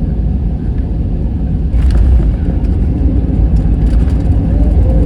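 Airbus A321 cabin noise during the landing: a loud, steady low rumble of engines and rushing air, growing louder about two seconds in.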